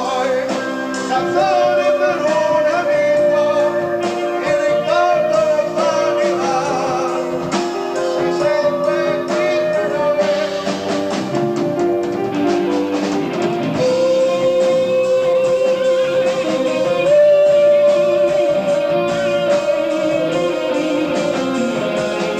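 Progressive rock band playing live, with singing and electric guitar, from an amateur concert tape. A long held high note runs through the second half.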